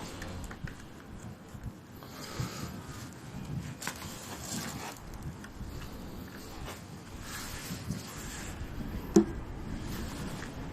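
Scattered light scrapes and small clicks of things being handled, with one sharp knock near the end.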